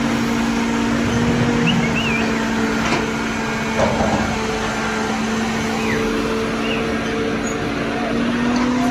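Tractor engine running at a steady speed, a constant drone, with a brief knock about four seconds in.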